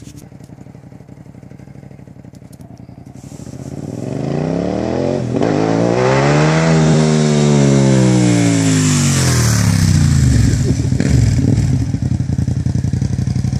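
Cagiva V-twin motorcycle engine running low and even, then revved up smoothly over about three seconds and let back down, settling to a steady, louder idle near the end.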